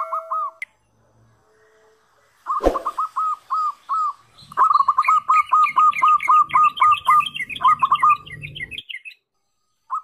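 Birds chirping in runs of short, hooked chirps, several a second, with a second, higher chirping joining for a few seconds in the middle. The chirps stop for about two seconds near the start and come back with a single thump.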